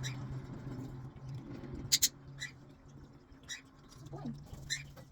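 Pet parrots giving short, high chirps, a handful of separate calls with the two loudest close together about two seconds in, over a steady low hum.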